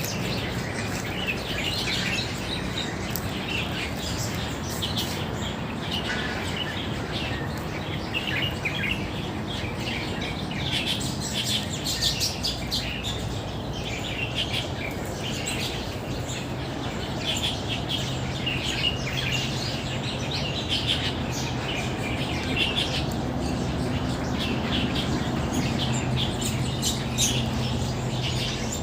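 Many birds chirping and calling together in a busy, overlapping chorus of short, high calls, over a steady low hum.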